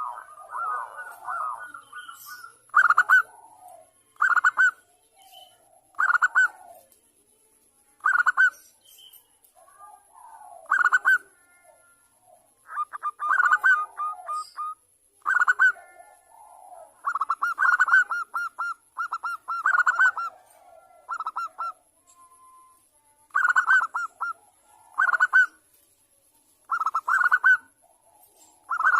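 Zebra dove (perkutut) calls: short, loud, rapid-fire staccato coos repeated every one to two seconds, with softer, lower warbling coos in between. It is a female's call, used as a lure to set male doves calling.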